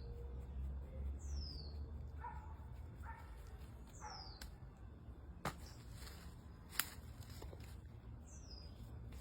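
A bird repeats a short high whistle that falls in pitch, about four times, over a low rumble. Two sharp clicks near the middle stand out as the loudest sounds.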